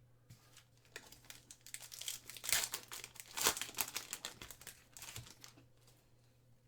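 Foil trading-card pack wrapper crinkling and tearing as it is pulled open, loudest in two crackly bursts near the middle before it quietens.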